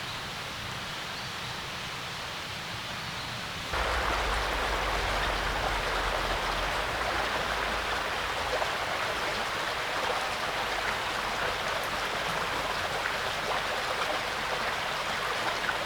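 Water in a stream running steadily, getting louder abruptly about four seconds in.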